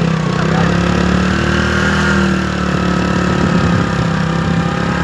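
A vehicle's engine running steadily at an even, low speed.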